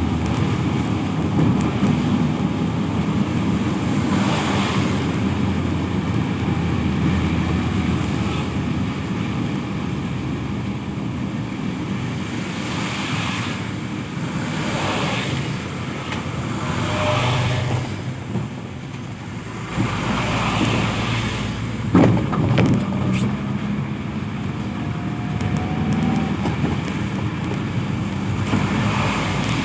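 Traffic on a wet road: a steady low engine rumble, with vehicles hissing past every few seconds on wet tarmac. There is a single sharp knock about two-thirds of the way through.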